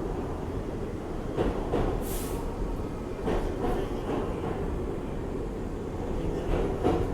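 R62A subway car running at speed in a tunnel, heard from inside: a steady rumble of wheels on rail with irregular clacks over the rail joints and a brief high hiss about two seconds in.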